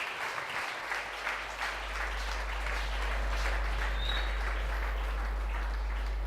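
A congregation applauding, the clapping thinning out towards the end. A steady low hum comes in after a second or two.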